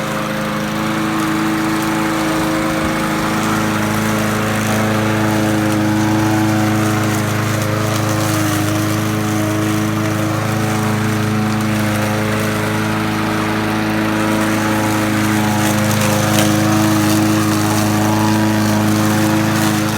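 Small lawn mower engine, just started, running steadily at an even speed.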